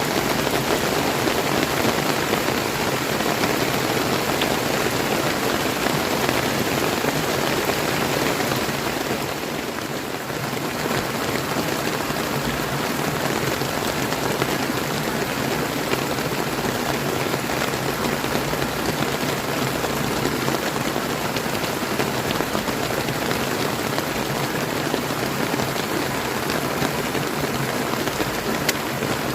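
Steady rain falling, mixed with flowing river water, as an even rushing hiss that dips briefly about a third of the way through.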